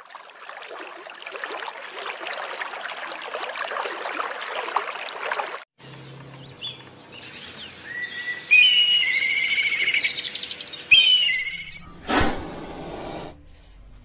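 A bird calling loudly in a run of pitched, whistled notes, with a few weaker chirps just before. The calls are preceded by several seconds of steady bubbling-water hiss, and a brief loud rush of noise comes near the end.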